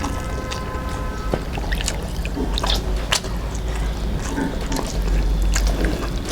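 Close-miked eating sounds: wet chewing and squishy mouth noises, with scattered soft clicks.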